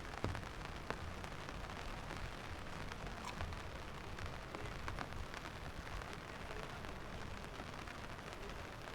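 Steady rain falling, with many separate drops ticking close by and a sharper tap about a quarter second in.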